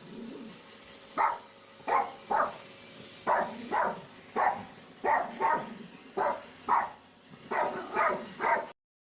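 A dog barking in a steady run of about a dozen short barks, roughly two a second, which stops abruptly near the end.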